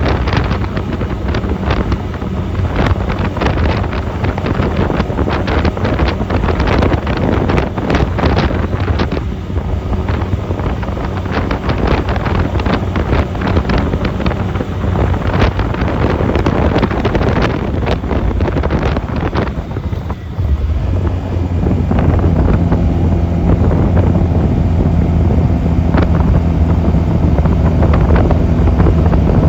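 Honda 250cc motorcycle engine running underway, with heavy wind buffeting on the microphone. About twenty seconds in the engine note drops briefly, then comes back stronger and steadier.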